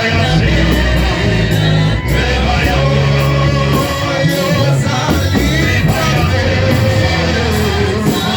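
Live church worship music: a band playing over a steady held bass, with voices singing.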